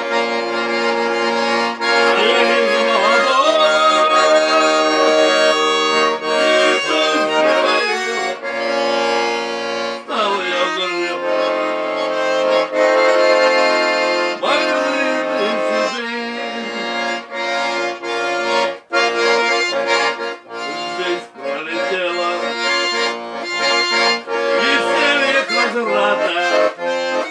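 Accordion playing an instrumental interlude of sustained chords and melody between the song's sung verses.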